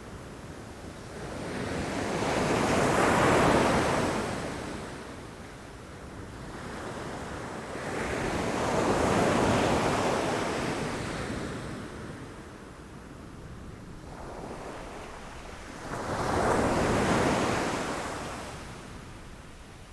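Ocean waves breaking against rocks, three waves in turn, each swelling to a rushing crash and then draining away, with a softer wash between them.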